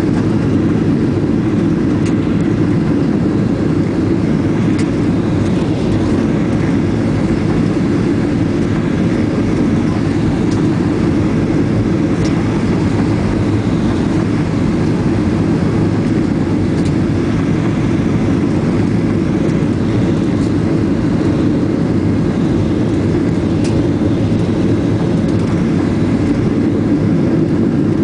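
Steady, loud engine and airflow noise heard inside the cabin of a Boeing 737-700, a dense low rumble that holds even throughout.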